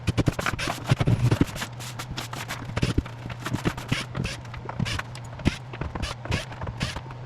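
Irregular clicks, knocks and scrapes of hand work on the stripped subfloor as the leftover cement-board screws are pulled out, over a steady low hum.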